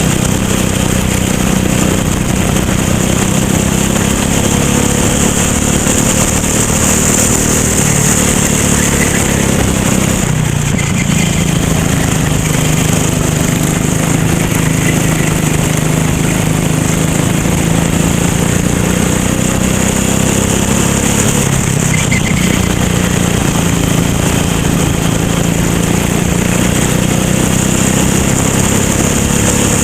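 Racing kart engine running hard, its pitch dropping and climbing back as the revs fall and rise, most clearly about ten seconds in and again about twenty-two seconds in.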